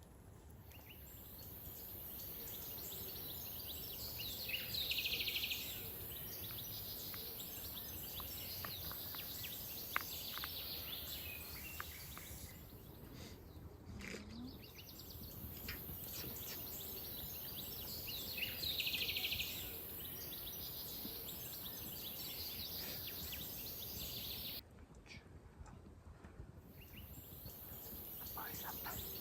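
Outdoor ambience: a steady high hiss with birds chirping now and then and scattered faint clicks. The hiss cuts out briefly twice, about halfway through and near the end.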